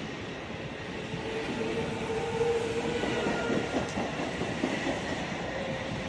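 Passenger train running on the rails, heard from inside the coach: a steady rumble of wheels on track with scattered clicks over rail joints. A faint steady whine comes in about a second and a half in and fades a couple of seconds later.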